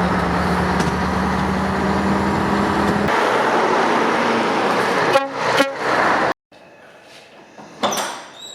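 Scania 143's 14-litre V8 diesel running steadily as the tractor unit drives, with two short horn toots about five seconds in. The sound then cuts off suddenly to a quiet room, with a brief clatter near the end.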